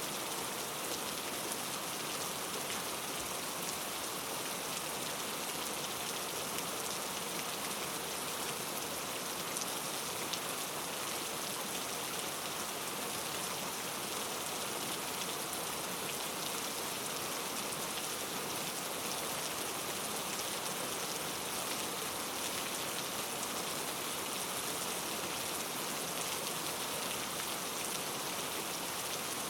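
Steady rain falling on a surface, an even hiss with fine crackling drops and no thunder.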